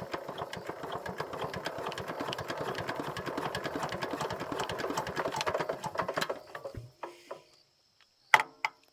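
A small engine running with a fast, rattly beat, which cuts out about seven seconds in. A single sharp knock follows near the end.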